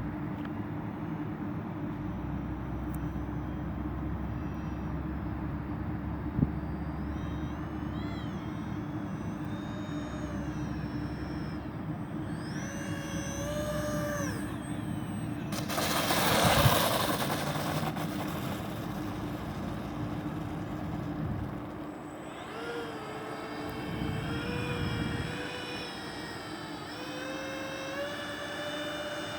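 Electric ducted fans of a radio-controlled Airbus A330-600 model airliner in flight: a whine that rises and falls in pitch with the throttle, over a steady hum. About halfway through comes a loud rush of air as the plane passes close.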